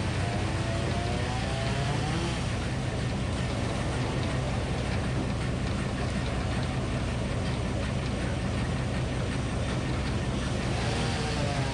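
Minneapolis Moline HEB 605 cubic inch engine running steadily, driving a Frick circular sawmill. A wavering tone rises and falls over it in the first two seconds and again near the end.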